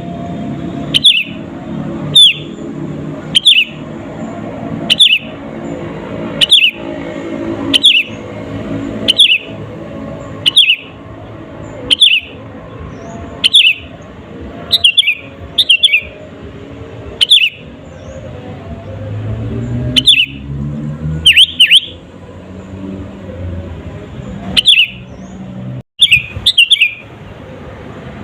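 Sooty-headed bulbul (kutilang) calling loudly: short, sharp notes that fall in pitch, repeated about every one and a half seconds, some in quick pairs, with a longer pause past the middle. A steady low hum lies underneath.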